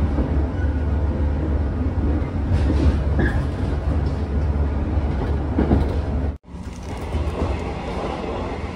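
Interior of a JR 115-series electric train under way: a steady low rumble of running gear with a few wheel clacks over rail joints. The sound cuts out for an instant about six seconds in, then carries on a little quieter.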